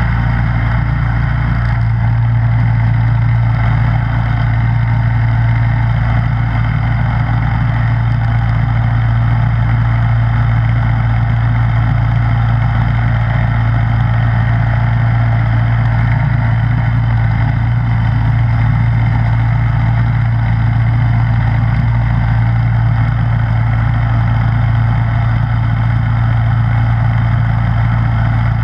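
Snowblower engine running steadily at an even speed, with a strong low hum that never changes.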